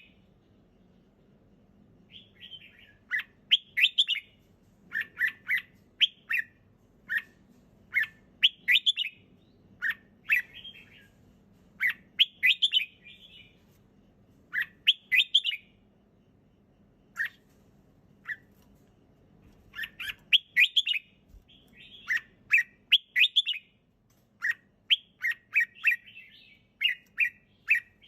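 Red-whiskered bulbul singing: short, bright phrases of a few quick notes, repeated with pauses of a second or two between them, starting about two seconds in.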